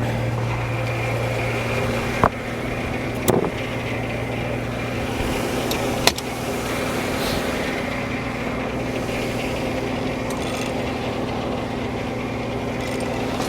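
Frick No. 1 sawmill and its power unit running steadily with a constant low hum. Three sharp knocks stand out, about two, three and six seconds in.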